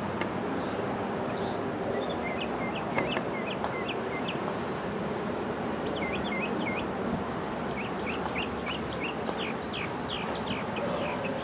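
A bird chirping in runs of short, quick calls over a steady rush of wind-like outdoor noise. The busiest run comes in the last few seconds, and there is a single sharp click about three seconds in.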